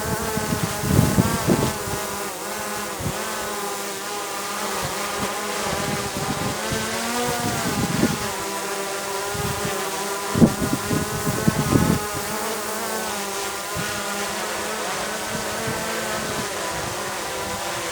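DJI quadcopter hovering in strong gusty wind: a steady buzzing propeller whine whose pitch wavers up and down as the drone holds its position. Wind buffets the microphone in low rumbling gusts, the strongest about ten and a half seconds in.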